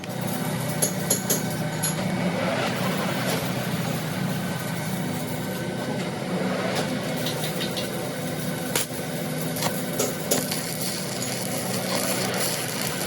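An engine or motor running steadily, with a few short metallic clicks over it.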